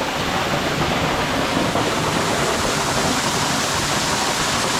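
Waterfall pouring in a steady, even rush of water, running high with more flow than usual.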